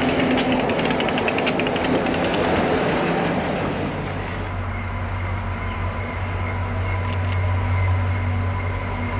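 Train passing: a fast rattling clatter for the first three or four seconds, then a steady low hum with a faint high tone.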